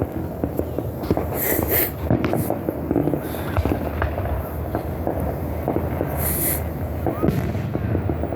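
Fireworks going off in a rapid run of crackling pops and bangs, with brief bursts of high hiss about a second and a half in and again about six seconds in.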